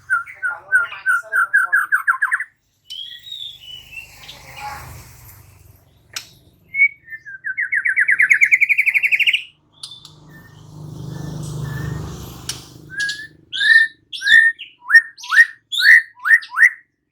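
White-rumped shama (murai batu) singing: a fast rising trill at the start and again midway, then a string of short, sharp whistled notes that sweep downward, about two a second, near the end. A low rumbling noise comes in briefly just past the middle.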